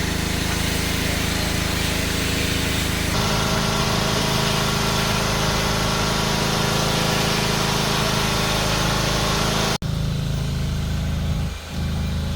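Car engine running steadily with road noise, the engine note shifting about three seconds in. The sound breaks off for an instant about ten seconds in.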